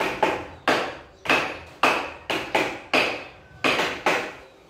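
A series of sharp taps or knocks, about two to three a second and irregular, each with a short ringing decay.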